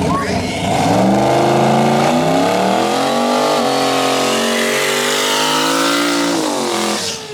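Drag car engine at full throttle down the strip. The revs climb and step back down with each gear change, then drop off near the end as the driver lifts.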